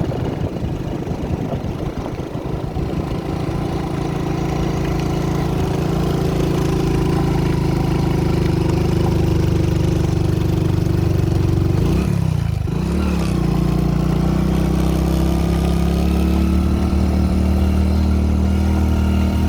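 A vehicle engine running steadily. About twelve seconds in, its pitch dips briefly and climbs back, as with a gear change, and the engine then runs on a little higher.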